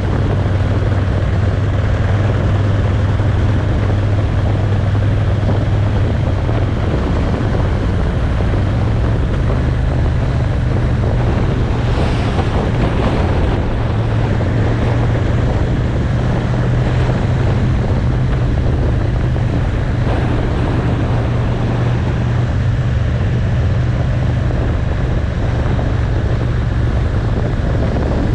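Motorcycle engine running at a steady cruise, with wind rushing over the microphone; the engine note shifts slightly a couple of times.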